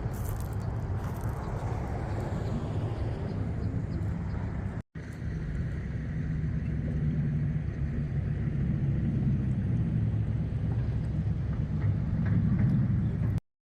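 Car driving: a steady engine and road-noise rumble. It drops out for a moment about five seconds in and cuts off suddenly near the end.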